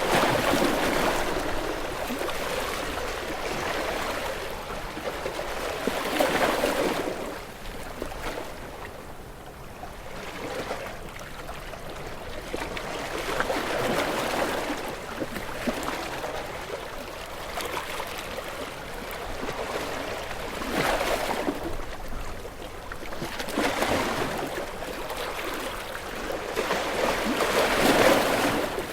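Ocean waves breaking and washing in, a rush of surf that swells and fades every few seconds. The loudest wave comes near the end.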